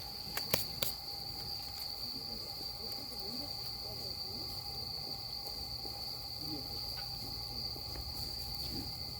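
Crickets trilling in one steady high note, with two sharp clicks about half a second in.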